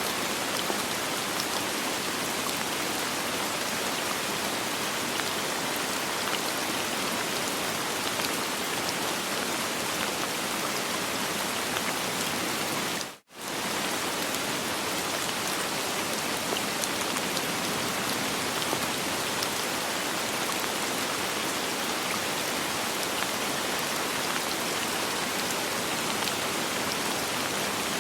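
Steady soft rain, an even hiss of many drops with no thunder. The sound cuts out for a split second about halfway through, then comes straight back.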